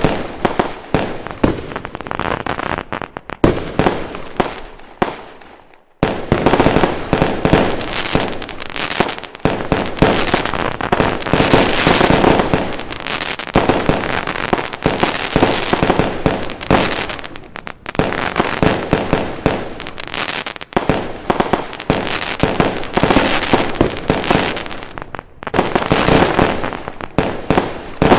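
Fireworks going off in a dense barrage of rapid bangs and crackling. It dies away about five to six seconds in, then starts again abruptly and carries on.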